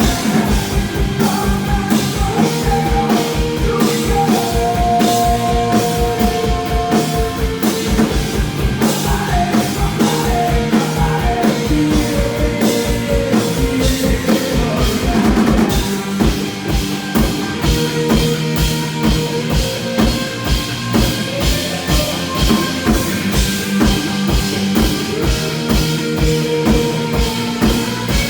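Rock band playing live: a drum kit keeps a steady kick-drum beat under sustained melodic instrument lines.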